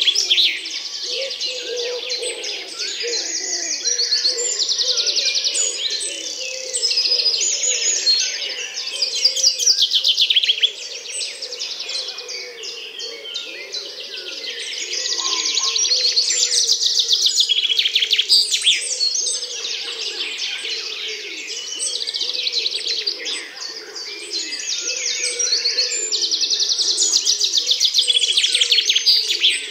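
Dense chorus of many small birds chirping and trilling, with rapid high trills that swell and fade every few seconds over a lower layer of short chattering calls.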